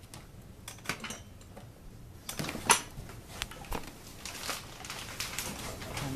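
Scattered light clicks and clatter of small hard objects being handled, with a sharper knock a little over two and a half seconds in.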